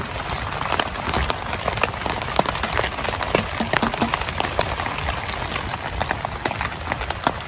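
Heavy rain falling steadily, with many separate drops striking close by as sharp ticks.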